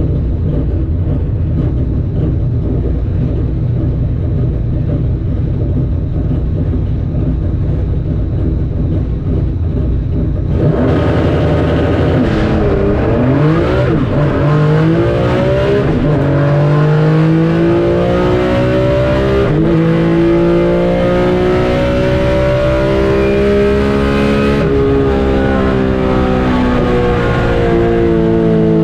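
3.6-litre VR6 engine in a Mk2 Volkswagen drag car. It rumbles low at first, then about ten seconds in it revs and pulls hard under full acceleration. The pitch climbs steadily and drops sharply twice at the upshifts.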